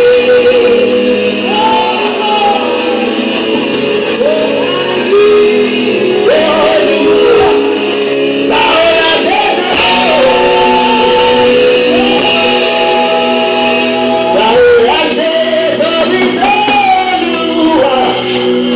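Live church worship music: voices singing sustained, gliding phrases over a steady instrumental accompaniment.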